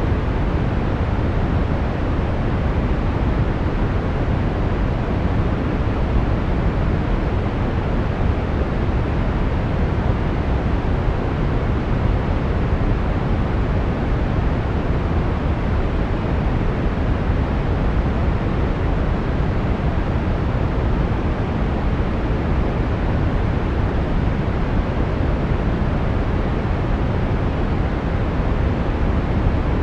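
Steady brown noise: an even, unchanging rumbling hiss with its energy weighted towards the low end and falling off towards the highs.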